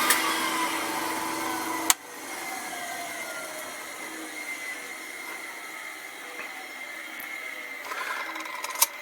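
Homemade sanding disc machine, driven by an old Servis Twin Tub washing-machine induction motor, running with its vacuum-cleaner dust extraction. A click about two seconds in, after which the sound drops and a falling whine is heard as the motor and plywood disc spin down, with a softer steady hum under it. Another click near the end.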